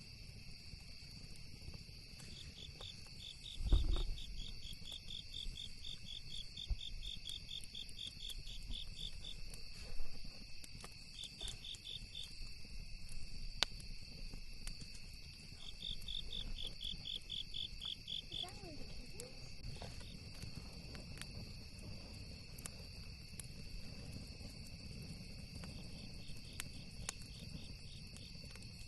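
Crickets and other insects: a steady high drone with trains of rapid chirps that come and go. Scattered sharp campfire crackles run through it, with one low thump about four seconds in.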